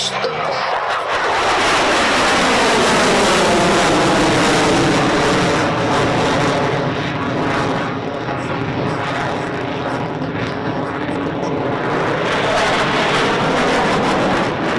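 Boeing EA-18G Growler's twin jet engines during a low display pass, loud and continuous, their pitch sliding down early on and rising again near the end as the jet moves past.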